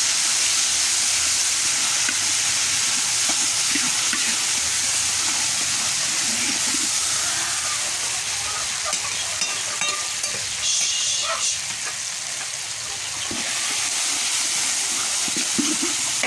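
Red chili paste for balado sizzling steadily in hot oil in a large metal wok, with a few scrapes of a metal spoon stirring it in the middle.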